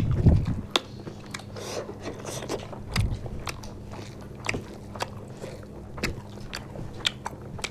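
Close-up eating sounds: people chewing chicken and curry rice eaten by hand, with irregular sharp mouth clicks.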